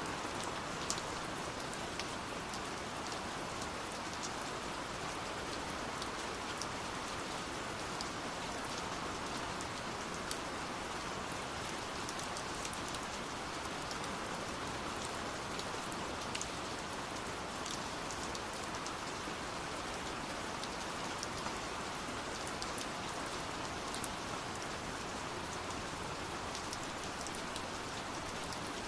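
Steady rain falling, an even hiss with many scattered drop patters.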